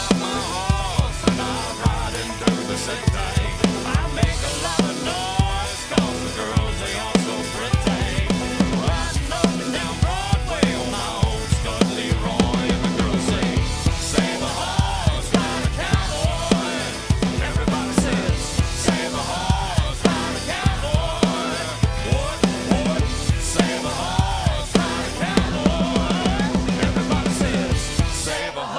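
Drum kit played along to a country-rock recording during an instrumental stretch without vocals: a steady kick-and-snare beat with cymbals over guitars and bass. It stops abruptly at the end.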